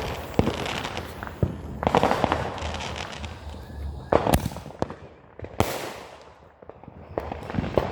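Consumer fireworks going off: a string of sharp bangs and crackling, with louder bursts about two, four and five and a half seconds in.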